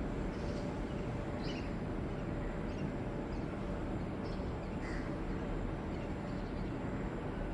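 Birds calling, short separate calls about half a dozen times, over a steady low rumble.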